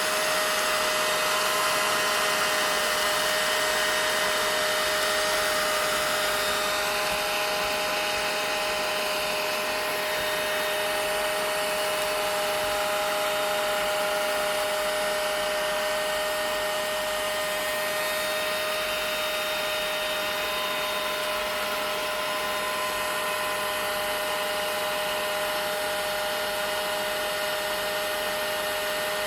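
Vacuum cleaner running steadily: a continuous rush of air with a steady whine on top, unchanging throughout.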